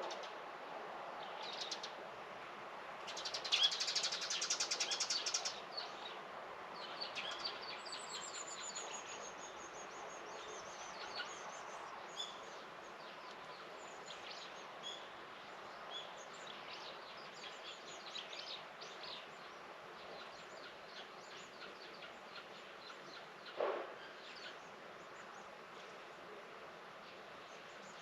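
Small birds chirping and singing over a steady background hiss. A loud, rapid trill comes about three seconds in and lasts some two seconds, followed by a falling run of high notes; a single short, lower call sounds near the end.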